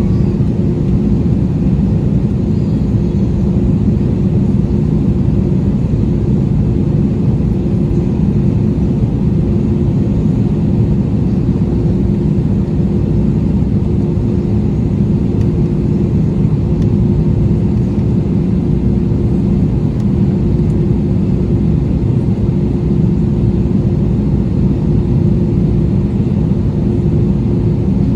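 Steady engine and air noise inside the cabin of an Airbus A320, a deep even rumble with a constant hum running through it.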